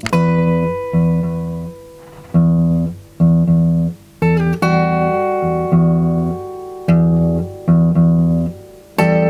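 Instrumental music on plucked guitar: a low note repeating in a steady pulse under higher notes that ring on.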